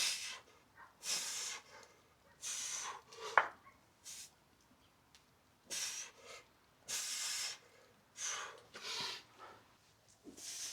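A person breathing hard during an exercise set, with a string of short, sharp, hissing breaths coming about once a second at an uneven pace.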